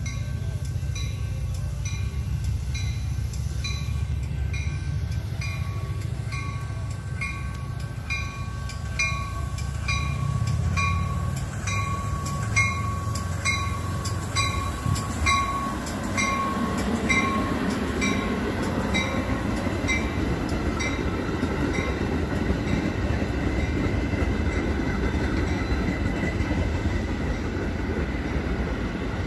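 Railroad grade-crossing warning bell ringing in steady, evenly spaced strikes over the low rumble of a Metra commuter train's diesel locomotive. About halfway through the bell fades and the steady rushing of the passing train's wheels and cars takes over.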